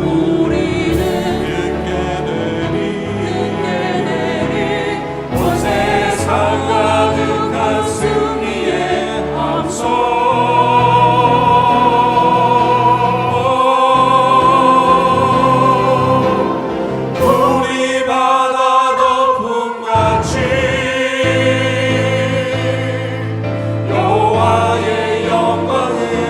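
Church choir singing a hymn anthem with accompaniment, holding long sustained chords.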